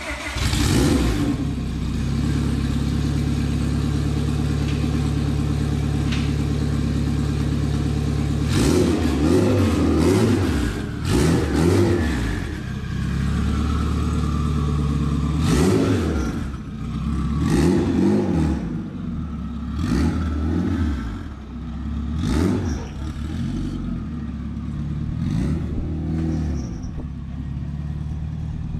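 Turbocharged Honda Civic's four-cylinder engine idling steadily just after starting, then revved over and over in short rising-and-falling blips as the car pulls away, a little quieter near the end.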